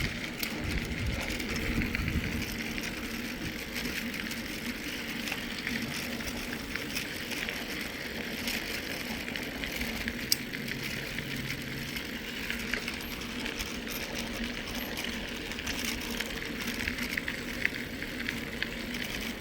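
Mountain bike rolling along a trail: steady tyre noise with a fine crackle and rattle, and wind rumbling on the hand-held phone's microphone.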